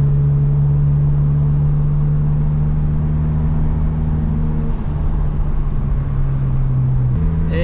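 Volkswagen GTI's turbocharged four-cylinder engine running steadily while driving, its note stepping down about five seconds in and up again near the end.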